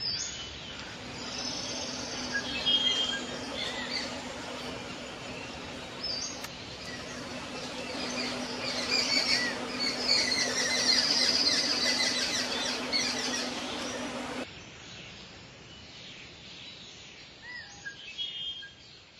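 Birds chirping and calling over a steady outdoor hiss with a low hum. The hiss and hum cut off suddenly about fourteen seconds in, leaving quieter background with a few faint chirps.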